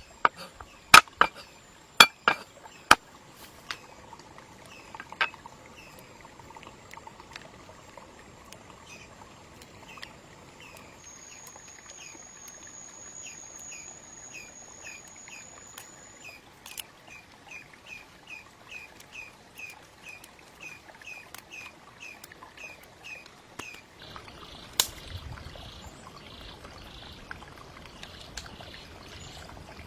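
Outdoor ambience with a short, high chirp repeating about twice a second and a steady thin high whine, with a few sharp knocks near the start.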